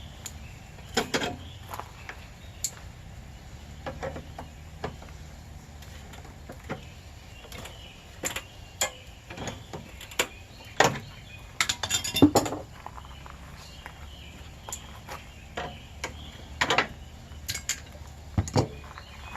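Air-conditioner units being taken apart by hand: irregular metallic clinks and knocks of tools and sheet-metal parts, with a cluster of louder clanks about twelve seconds in.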